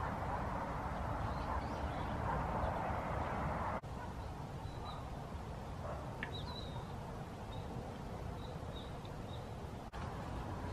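Steady outdoor background noise with a string of faint, short, high-pitched bird chirps in the second half.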